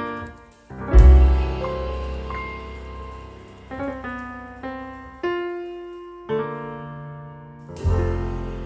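Slow, gentle solo piano music: single melody notes ring out and fade, over deep bass notes struck about a second in and again near the end.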